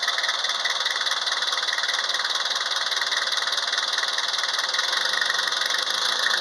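Nissan QD32 four-cylinder diesel engine idling steadily, with a fast, even clatter.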